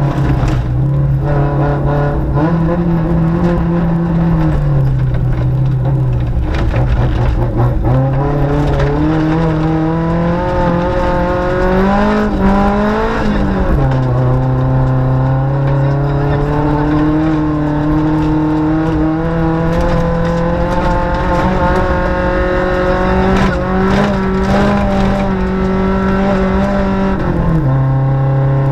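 VW Gol rally car's engine heard from inside the cabin, running hard on a muddy dirt road. Its pitch holds steady for stretches and steps up and down with gear changes, over dense road and tyre noise with scattered knocks.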